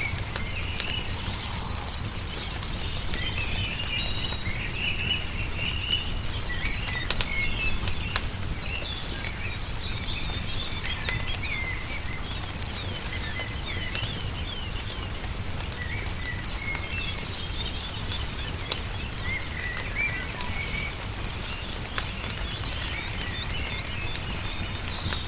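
Small birds chirping and trilling over and over, with a wood fire crackling in sharp scattered pops beneath, over a steady low rumble.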